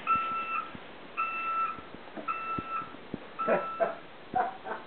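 Four even electronic beeps, each about half a second long and about a second apart, with a child's voice and a few knocks near the end.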